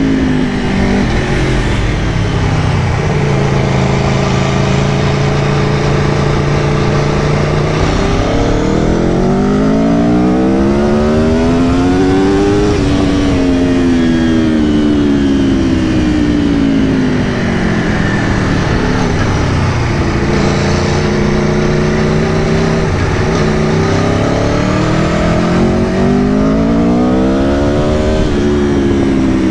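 2022 Aprilia Tuono V4 Factory's 65-degree V4 engine running while riding. Its pitch climbs smoothly twice as the bike accelerates and sinks slowly as the throttle rolls off, over a steady rush of wind and road noise.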